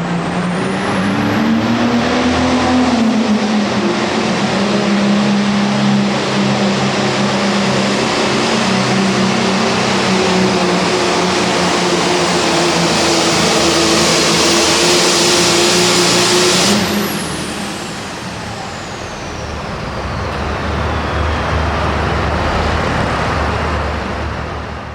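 Turbocharged diesel Super Farm pulling tractor run at full power: the engine note climbs over the first couple of seconds, then holds steady under a loud turbo hiss. About seventeen seconds in the throttle cuts off suddenly, and the turbocharger's whine winds down over several seconds while the engine drops to a low rumble.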